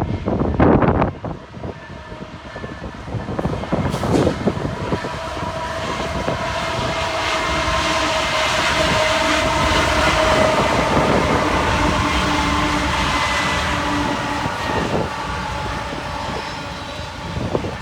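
Union Pacific intermodal freight train led by an SD70ACE diesel locomotive approaching and passing, its rumble building to a peak about ten seconds in, with steady tones over it. Wind gusts on the microphone at the start.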